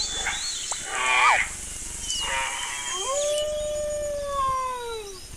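A dog howling. Shorter calls come in the first half, then one long howl of about two seconds that rises and slowly falls in pitch. High, quick chirps sound throughout.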